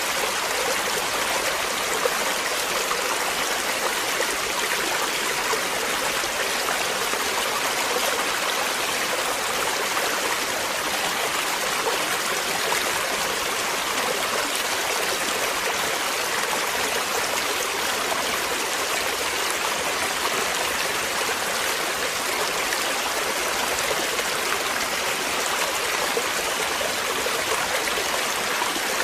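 Flowing water: a stream running steadily, an even rushing with some trickling.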